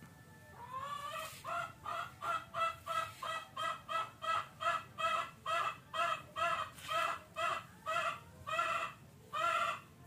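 Domestic fowl calling over and over, about two calls a second. The run starts with a rising call about a second in.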